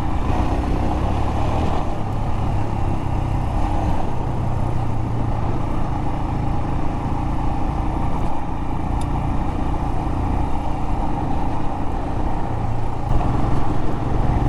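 Royal Enfield Himalayan motorcycle engine running steadily under way, with tyre and rushing noise from riding over a crushed-rock trail.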